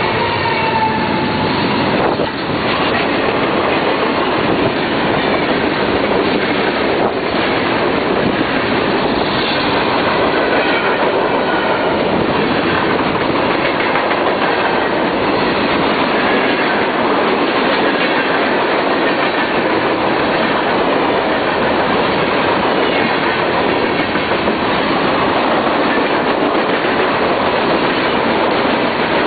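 Norfolk Southern freight train's cars rolling past, a steady loud rumble of steel wheels on rail with clickety-clack over the rail joints. The end of the train horn fades out in the first second.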